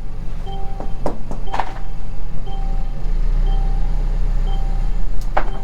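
Car on the move: a steady low road and engine rumble with a few sharp knocks, under quiet music with a note repeating about once a second.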